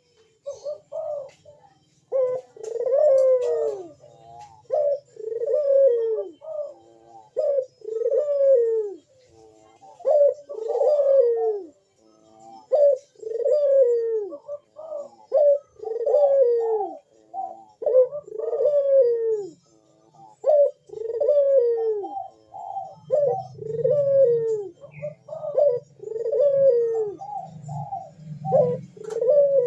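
Ringneck (Barbary) dove cooing over and over, each coo rising and then falling, about one every two seconds with short notes in between: an excited male calling in breeding mood. A low hum grows in the last few seconds.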